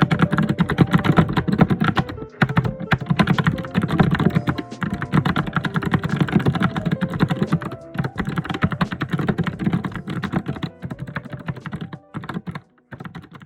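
Fast, continuous typing on a computer keyboard, dense clattering keystrokes that thin out and fade in the last second or so before stopping.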